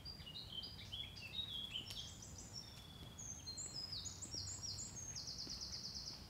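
A small songbird singing one long song of quick, high notes that step downward in short runs, ending in a fast even trill.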